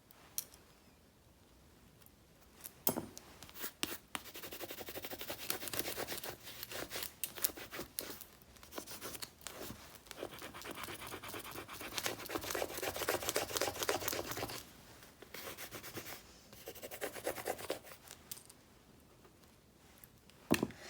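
Crinkly rustling and small clicks from handling paper and plastic sticker sheets. A few sharp taps come first, then several seconds of dense crackling that thins out and stops, with a couple more clicks near the end.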